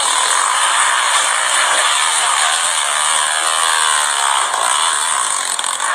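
Motocross dirt bike engines running at high revs, a buzzy, rasping engine noise, with a pitch that falls through the middle.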